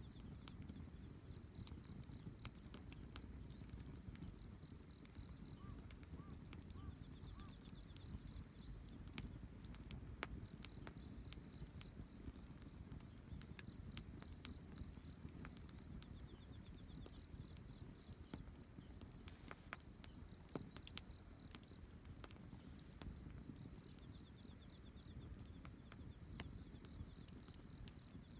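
Wood campfire crackling, with irregular sharp pops and snaps over a low rumble of burning. A faint steady high tone runs in the background.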